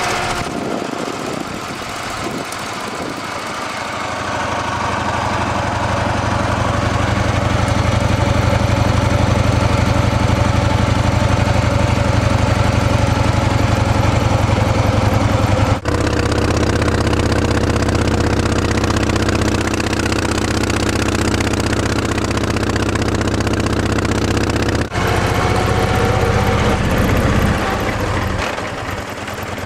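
1935 Morgan three-wheeler's engine running steadily under load while driving up a mountain road, with road and wind noise. It grows louder over the first few seconds and drops out for an instant twice.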